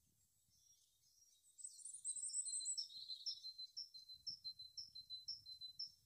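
A bird singing high-pitched: a quick twittering phrase about a second and a half in, then a run of short, evenly repeated notes, about two a second.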